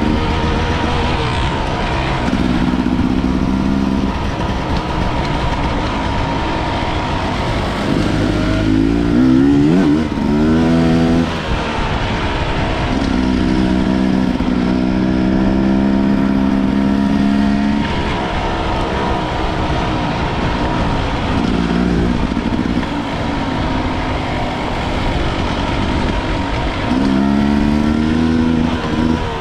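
250 cc enduro dirt bike engine riding along. Its pitch climbs as it revs up about eight seconds in and again near the end, and holds steady in between.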